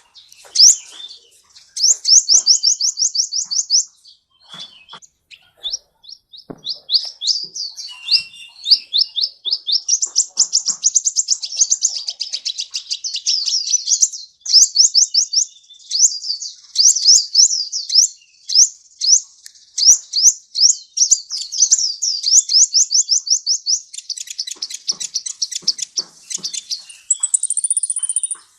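Sunbird (kolibri) song: fast trills of high, down-slurred notes, about seven a second, in runs of a few seconds with short breaks. A thinner, higher note comes near the end.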